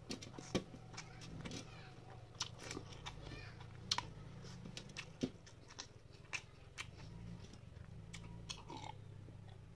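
Close-miked chewing and lip smacks of someone eating rice by hand, with many short, sharp, irregular clicks.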